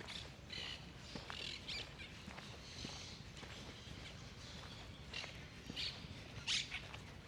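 Small birds chirping in short, scattered calls, the loudest about six and a half seconds in, over faint footsteps.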